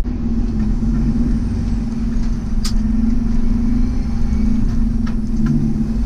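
Peterbilt 389 dump truck's diesel engine running steadily, heard from inside the cab: a low rumble with a steady drone. A single sharp click about two and a half seconds in.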